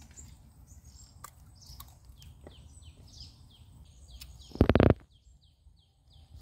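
A bird calling over and over with short, falling chirps, a few a second. About three-quarters of the way through there is one loud, brief knock, then the background drops suddenly quieter while the chirping goes on.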